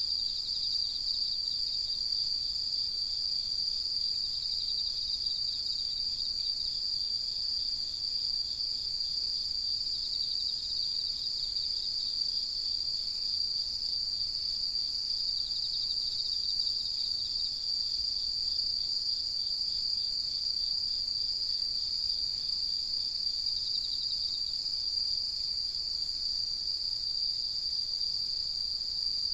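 A chorus of autumn night insects singing: one high, unbroken trill, and a slightly lower pulsed trill that comes in and fades out now and then.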